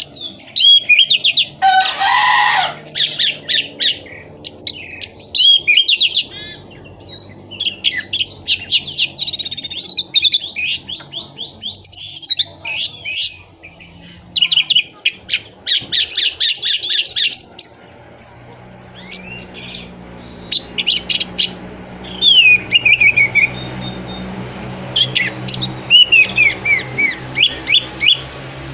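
Orange-headed thrush singing: a loud, varied song of rapid trilled and warbled phrases in bursts with short pauses, with a harsh rasping call about two seconds in.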